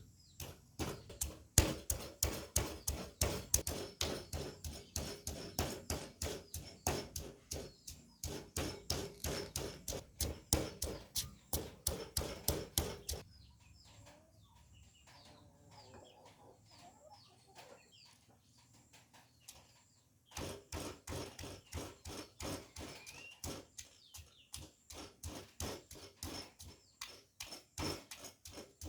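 Knife chopping on a cutting board in a fast, steady rhythm of about four strokes a second. The chopping stops for several seconds in the middle, then starts again.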